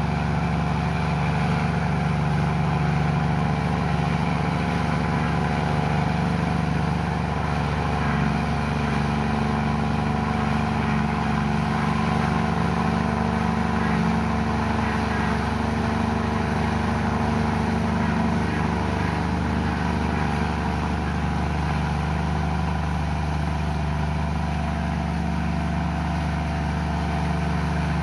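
Komatsu bulldozer's diesel engine running steadily under a constant note, with no revving.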